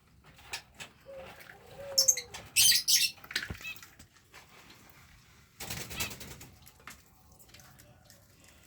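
A small bird's wings fluttering in short bursts, loudest about two to three seconds in and again briefly around six seconds.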